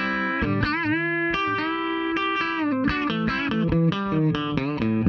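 Electric guitar played through a Wampler Ego Compressor pedal with the blend fully up, so the notes are heavily squashed into an even, sustained level: the old-style compression sound. The lick includes string bends about a second in.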